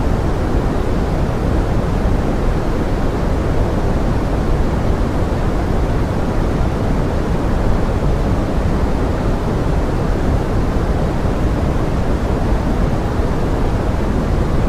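Steady pink noise blended with the sound of forest rain: a constant, deep-weighted hiss at an even level, with no separate drops or events standing out.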